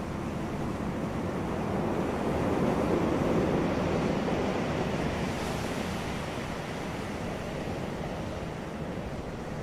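Ocean waves breaking on a beach, a steady rush of surf that swells about two seconds in and eases off again over the next few seconds.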